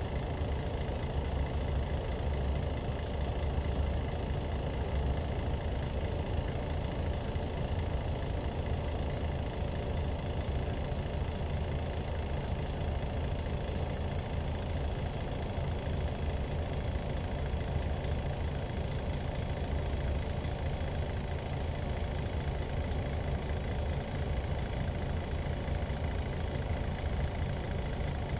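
The Hyundai D6CC inline-six diesel engine of a Hyundai Universe coach running steadily. It gives a low, even drone with no change in revs, and a few faint clicks are heard along the way.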